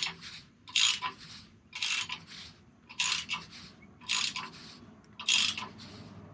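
Socket ratchet tightening the nut on an exhaust tip clamp: six strokes about a second apart, each a short burst of pawl clicking on the back-swing.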